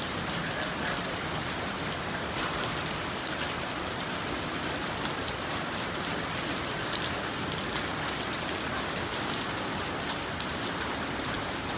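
Rain falling steadily, with a few sharp ticks of drops striking a hard surface now and then.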